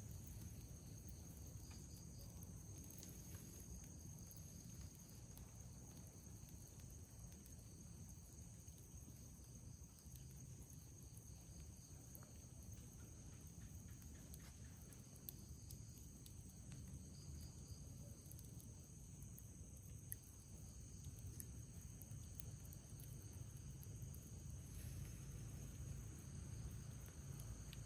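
Night insects trilling faintly and steadily in several high, even tones over a low rumble, with two faint clicks in the middle.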